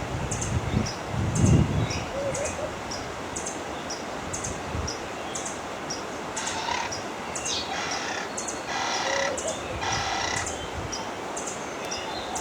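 Garden birds calling: a short high chirp repeated about twice a second, and around the middle a run of harsh, raspy calls. A brief low rumble about a second and a half in is the loudest moment.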